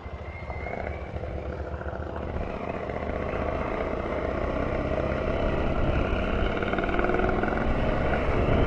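KTM adventure motorcycle engine pulling away and accelerating, its sound growing steadily louder, heard from the rider's helmet.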